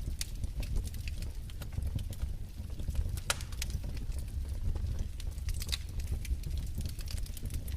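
Wood fire in a fireplace crackling: irregular sharp pops and snaps over a low steady rumble, the loudest snap about three seconds in.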